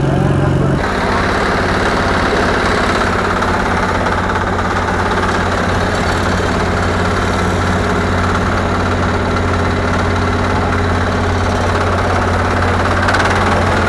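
Garden tractor engine idling steadily; a higher, faster engine note drops away about a second in.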